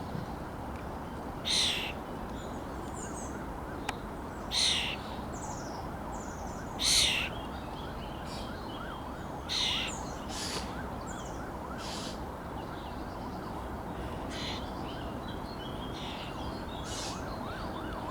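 Common starlings at a nest box giving short, harsh rasping calls, repeated about every one to three seconds.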